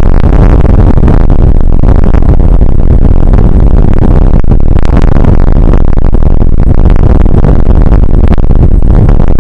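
Rain shower on an outdoor weather camera's microphone: a loud, steady rumbling roar with crackle, overdriven and distorted.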